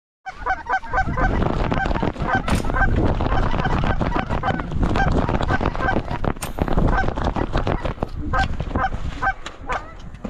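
Geese honking in quick, repeated short calls, several a second, over a heavy rumble of wind on the microphone that eases near the end. A couple of sharp knocks are heard.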